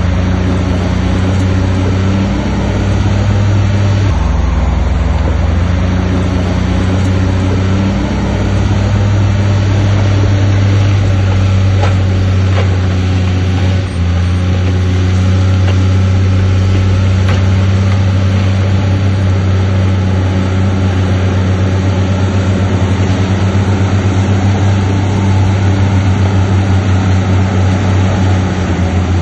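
Diesel engine of heavy earthmoving machinery running loud and steady, its note shifting slightly a few times, with a brief drop in level about fourteen seconds in.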